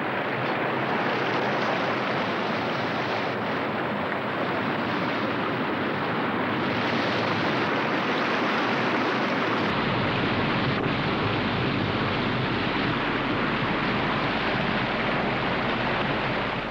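Loud, steady rush of river white water, an unbroken wash with no pauses. The tone shifts slightly about ten seconds in.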